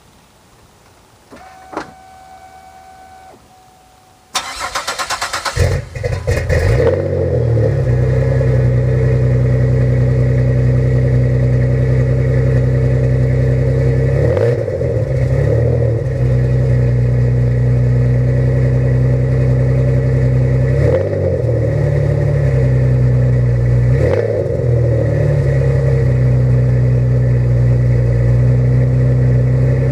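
A short electronic chime sounds, then the 2004 Pontiac Grand Prix's 3.8-litre V6 cranks for about a second and a half and catches on the first try on a cold start. It settles into a loud, steady idle through a custom exhaust, with the idle speed shifting briefly three times.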